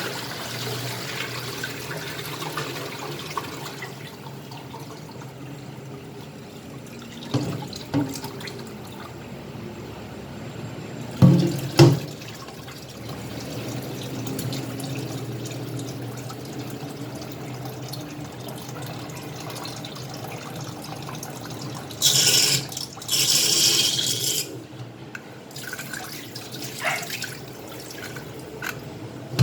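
Water splashing and running as raw chicken pieces are washed by hand in a vessel of water. Hard knocks of the vessel come about 11 and 12 seconds in, and a short hissing gush of water pours out about 22 seconds in.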